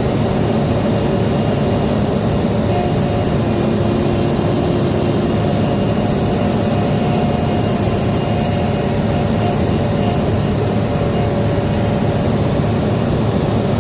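Cat 395 excavator's heavy diesel engine running steadily under working load, at an even level, with faint higher whines coming and going over it.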